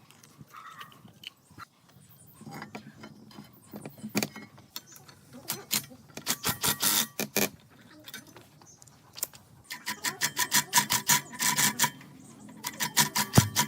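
Hand-tool work in a workshop: rapid runs of short scraping or clicking strokes, several a second, in bursts of a second or two, coming thicker and faster in the second half.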